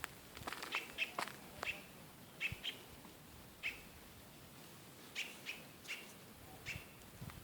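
Bird chirping: short high chirps repeated every half second to a second, with a few sharp clicks mixed in.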